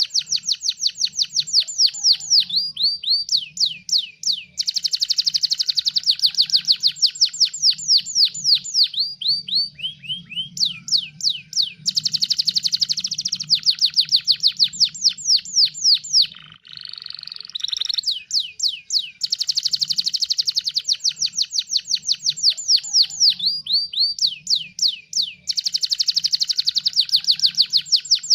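Domestic canary singing a loud, fast song: long trills of rapid repeated down-slurred notes, about ten a second, in phrases of a few seconds with short breaks, and a brief buzzy passage about two-thirds of the way through. A faint low hum runs underneath.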